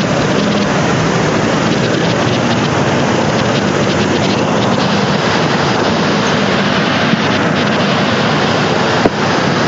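Heavy rainstorm: a steady, loud rush of rain and wind, with one sharp knock near the end.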